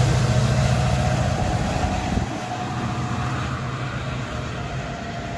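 GO Transit commuter train pulling away, its diesel locomotive and wheels rumbling and fading steadily as it recedes; the deep engine hum drops off about two seconds in.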